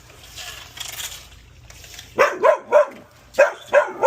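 A dog barking: six short, sharp barks in two quick runs of three, starting about halfway through.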